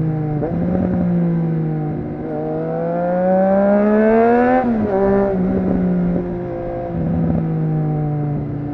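Triumph Street Triple RS inline-three engine running through a Yoshimura exhaust while being ridden. The note eases off, then rises under throttle for about two seconds, drops sharply just before the middle, and settles into a steadier, lower note.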